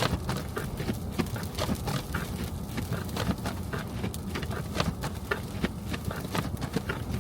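Car driving on a snowy city street: a steady low road rumble with many irregular sharp clicks and taps, several a second.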